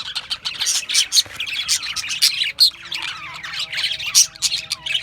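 A flock of budgerigars chirping and squawking over one another in a rapid, continuous chatter of short, high-pitched calls.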